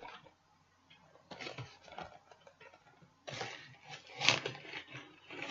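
Handling noises from plastic puzzle cubes and their packaging: a few short rustles and clacks, the loudest about four seconds in.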